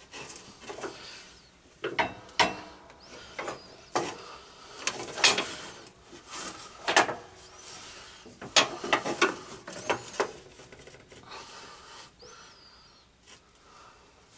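Irregular knocks, clacks and scraping of metal parts as a lawn tractor's steering box is worked into place against the frame, with several sharper knocks in the first two thirds and quieter rubbing toward the end.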